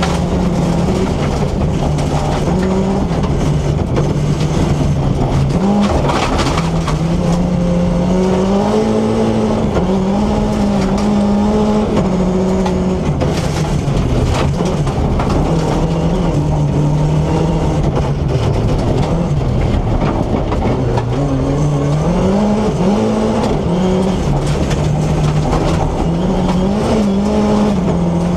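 BMW E30 rally car's S14B25 four-cylinder engine being driven hard, its revs climbing and dropping over and over.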